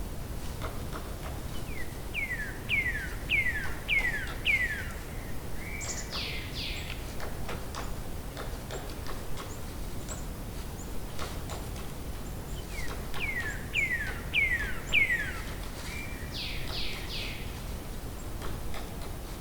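A songbird singing the same phrase twice, about eleven seconds apart: a run of five falling whistled notes, a short level note, then a quick cluster of higher notes sweeping down. Under it runs a steady low rumble of outdoor noise.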